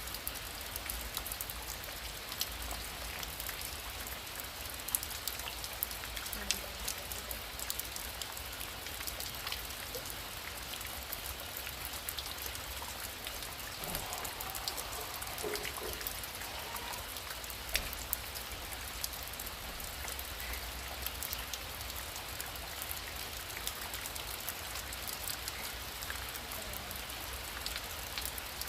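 Heavy rain falling steadily, with many individual drops ticking sharply on a surface throughout.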